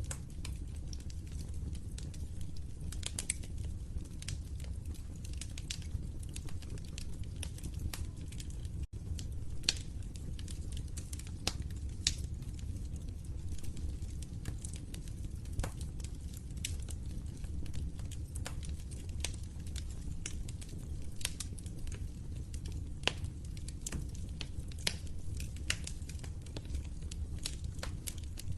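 Wood fire crackling in a fireplace: irregular sharp pops and snaps over a steady low rumble. The sound cuts out for an instant about nine seconds in.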